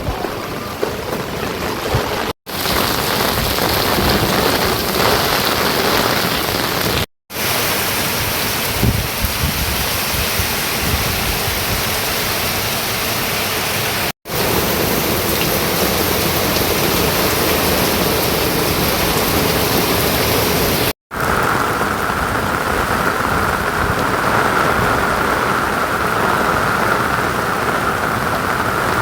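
Steady heavy rainfall, a dense even hiss, broken off sharply four times, each time resuming with a slightly different sound; in the last stretch it takes on a higher, more even hiss.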